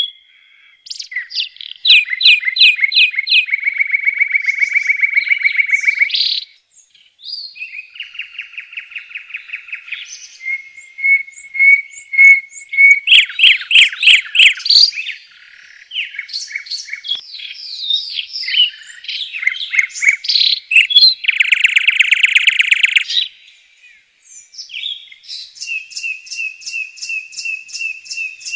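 Birds calling during a fight between a black drongo and a common hoopoe: loud bouts of rapid, repeated harsh notes and buzzy trills, several seconds each, with short gaps between them.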